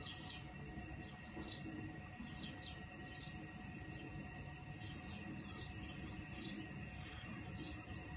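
Short, high bird chirps repeating roughly once a second over a steady low background noise.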